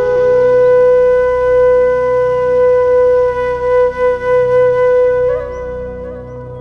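Background music: a flute holding one long note over a steady low drone, with a brief ornament about five seconds in before it fades.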